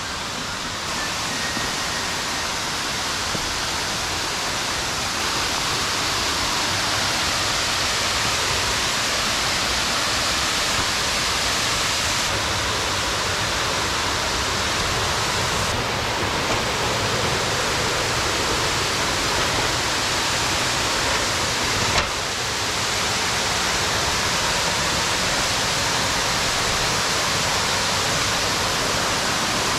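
Steady rush of falling water, a constant hiss-like roar. Its level steps slightly where the footage changes, with a brief click about 22 seconds in.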